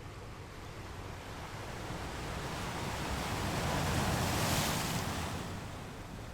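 Ocean waves on the shore: one wave swells, is loudest about four seconds in, then washes back and fades.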